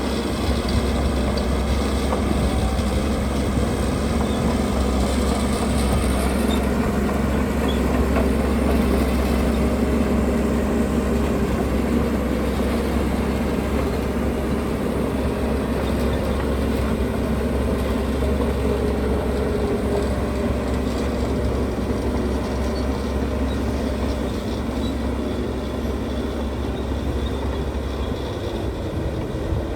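Heavy earthmoving machinery's diesel engine running steadily: a continuous low rumble.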